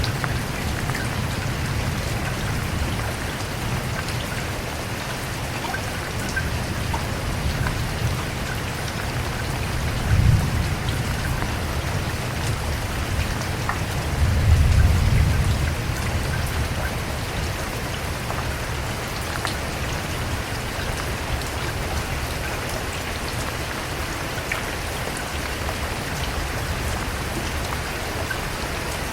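Steady rain falling on a surface. A brief low rumble of thunder about ten seconds in, and a longer, louder one around fifteen seconds.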